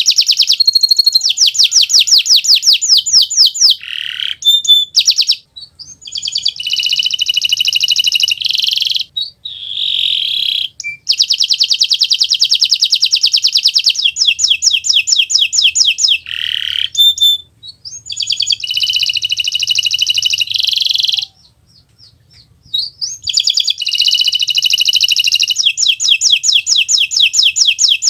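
Kenari Nusantara canary in full song: long, fast rolling trills of rapidly repeated high notes, in phrases of a few seconds broken by short pauses.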